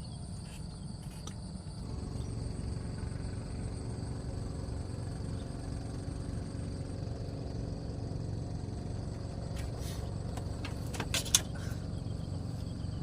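An engine running steadily with a low rumble that gets a little louder about two seconds in, with a few sharp clicks near the end.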